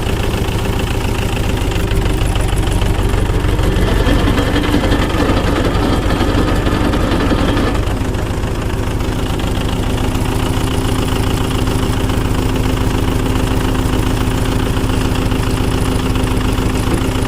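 Tractor engine running steadily at idle, a continuous low hum; a steady tone within it drops slightly in pitch about eight seconds in.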